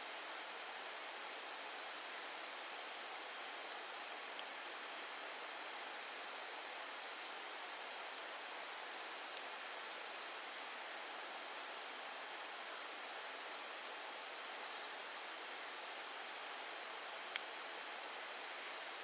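Faint outdoor ambience: insects calling in a steady pulsing trill over a soft, even background rush. A single sharp click comes near the end.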